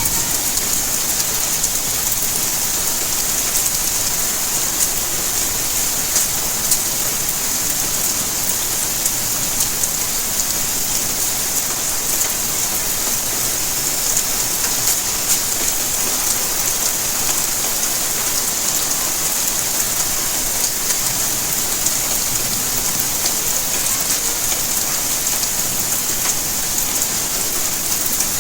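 Steady rainfall, a dense even hiss with many small drop ticks scattered through it.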